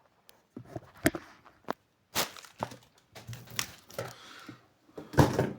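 Boxed collectibles and packaging being handled and set down on a table: a string of knocks and taps with rustling between them, the loudest near the end.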